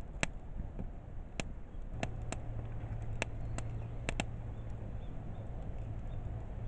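Wood fire crackling in a garden kamado hearth: sharp, irregular pops over a low rumbling hiss. A steady low hum joins in about two seconds in.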